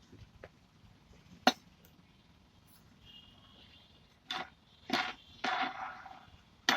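Metal clicks and clinks of hand tools on a ceiling fan's metal parts, with one sharp click about a second and a half in and a cluster of ringing clinks and knocks near the end, as a bearing puller is fitted to lock onto the fan's bearing.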